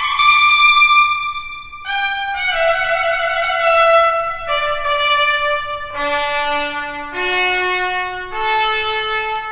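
Solo trumpet playing a slow melody of held notes, one at a time, stepping down from high in the range to a low note about six seconds in, then climbing back up note by note.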